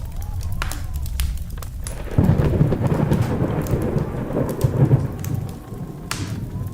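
Wood fire crackling with scattered sharp pops. About two seconds in, a deep rumbling rush of flame swells up, lasts about three seconds, then dies back.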